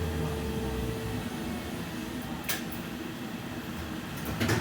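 Inside a BKM 60102 tram on the move: a steady low hum from the running gear, with a sharp click about halfway and a few knocks near the end.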